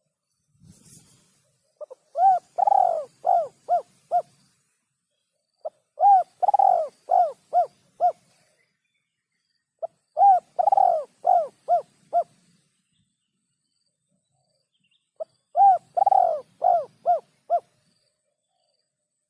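Spotted dove cooing: four phrases a few seconds apart, each a run of about six quick arched coos with one longer coo near the start.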